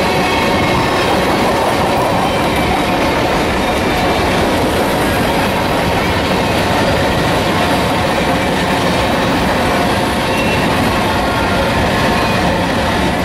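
Freight train cars rolling past close by: a steady rumble and clatter of steel wheels on rail, with a few thin, steady, high squealing tones over it.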